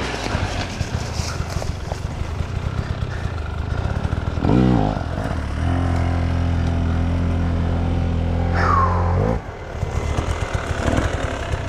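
Enduro motorcycle engine running off-road, revving up about four and a half seconds in, then held at steady high revs for about four seconds before dropping away suddenly.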